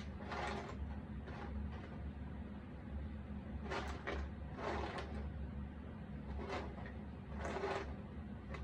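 Jigsaw puzzle pieces being handled and slid into place: about six short scraping rustles, one every second or so, over a steady low hum.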